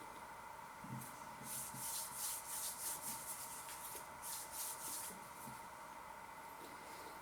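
A person chewing a mouthful of venison kofta close to the microphone: a run of soft, wet mouth sounds from about one to five seconds in.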